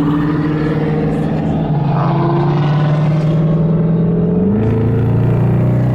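Car engine, a muscle-car V8, running loud at steady high revs, its note shifting in pitch about four and a half seconds in.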